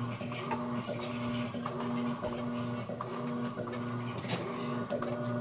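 Electrolux Essential Care LES11 11 kg washing machine running a wash, its motor humming in short repeated spurts with brief breaks between them, with occasional sharp clicks.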